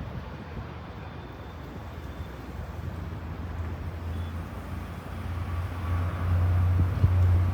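Low jet rumble from a British Airways Airbus A350-1000's Rolls-Royce Trent XWB engines, swelling over the last couple of seconds as the airliner comes closer, with a short bump near the end.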